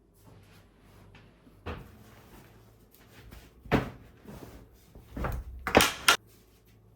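A few knocks and clunks of household things being handled, the loudest one a little past halfway and a close pair near the end.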